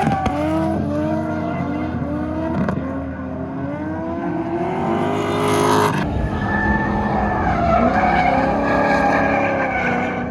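Drift cars running on track: engines revving, their pitch rising and falling repeatedly, with tyres skidding. The sound changes abruptly about six seconds in.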